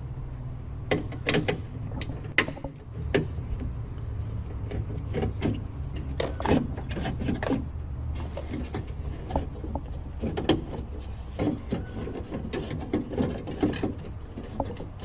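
Tools and door parts handled during a car door handle replacement, making irregular sharp clicks, taps and knocks over a steady low hum.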